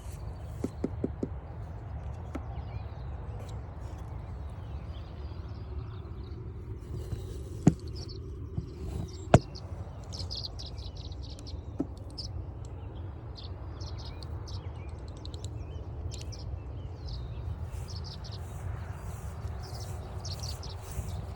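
Songbirds chirping and singing on and off over a low steady rumble. A quick run of faint clicks comes about a second in, and a few sharp knocks follow near the middle, the loudest about nine seconds in.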